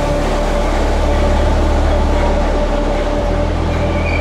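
Merseyrail Class 507/508 electric multiple unit running slowly along the platform of an underground station: a steady low rumble with a faint steady hum, in the echo of the tunnel station.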